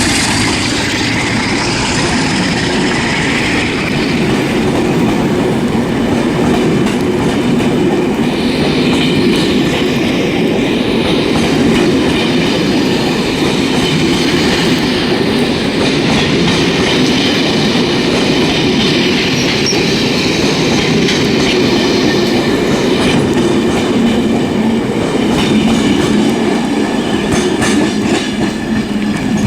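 Passenger train rolling steadily past, its wheels clattering over the rail joints.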